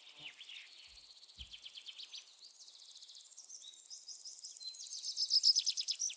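Songbird chirping and trilling in rapid series of short high notes, growing louder over the last couple of seconds.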